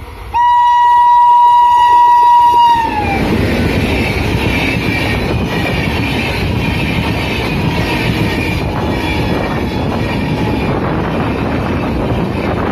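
Indian Railways WAP7 electric locomotive's horn sounding one loud chord for about two and a half seconds, its pitch dropping at the end as the engine passes. Then the steady rumble and wheel clatter of the Duronto Express coaches running past.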